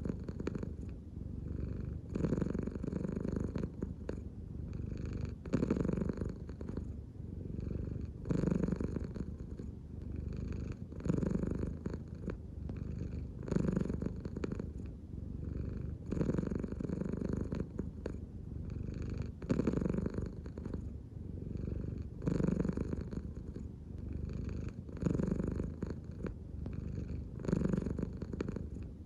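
American Shorthair cat purring steadily, the purr swelling and easing with each breath about every two and a half to three seconds.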